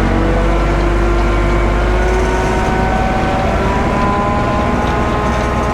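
Heavy engine running steadily with a deep rumble, its pitch rising slowly over a few seconds.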